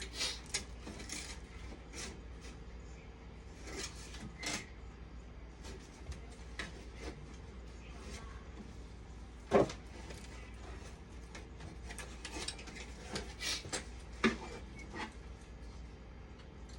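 Scattered clicks, taps and rubbing of tools and small parts being handled on a workbench, with one louder knock about nine and a half seconds in.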